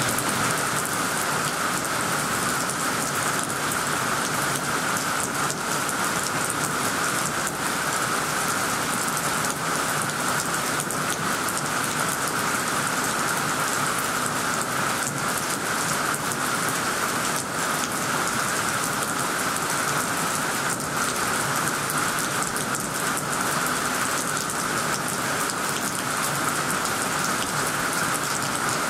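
Heavy downpour falling steadily, an even hiss of rain with faint ticks of individual drops.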